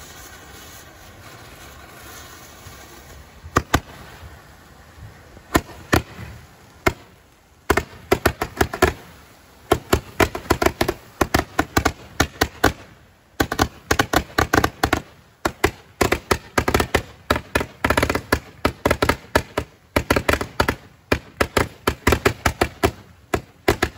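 Three Phantom glitter barrage Roman candles firing: after a few quiet seconds, sharp pops and cracks begin, sparse at first, then coming thick and fast in clusters from about eight seconds in.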